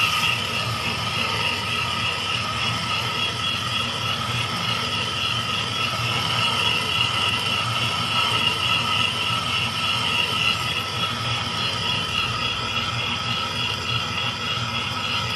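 Metal lathe running while cutting a thread in steel, a steady machine hum with a high, slightly wavering whine from the cut.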